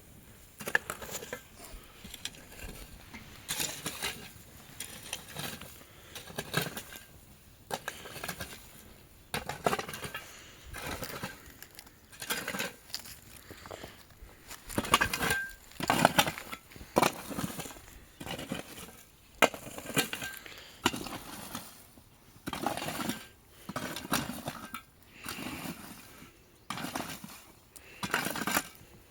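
A broom sweeping rough ground in repeated short strokes, about one a second, with light clinks mixed in.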